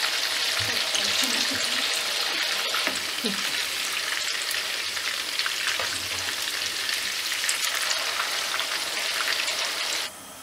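Chicken kebab patties sizzling and crackling steadily in hot oil in a frying pan. The sizzle cuts off suddenly near the end.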